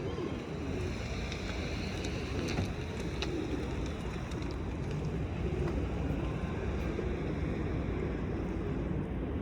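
Steady outdoor background noise, a low rumble with hiss, and a few faint clicks about two to three seconds in.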